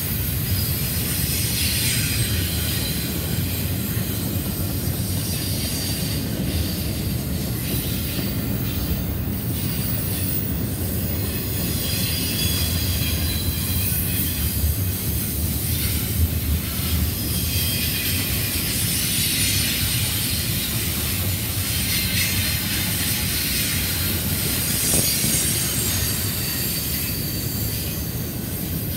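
CSX double-stack intermodal train of container well cars rolling past close by: a steady heavy rumble of steel wheels on rail, with a high wheel squeal and hiss that swells and fades now and then.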